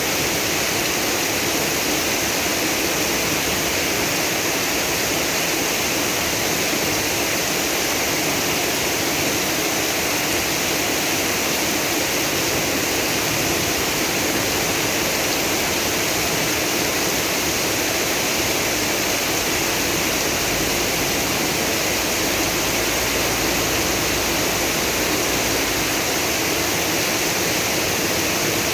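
Heavy rain pouring down steadily, mixed with the rush of rainwater flowing across the street.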